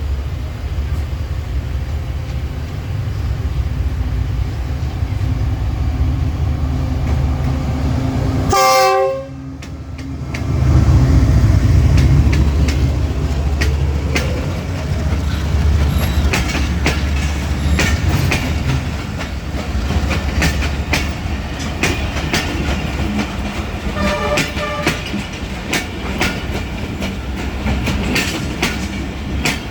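A train horn sounds briefly about nine seconds in. After it the train runs on with a loud low rumble and the clickety-clack of its wheels over the rail joints.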